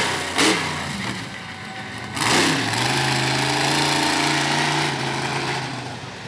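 Iron Warrior monster truck's engine revving hard in sharp surges at the start and again about two seconds in, then holding a steady note and easing off near the end.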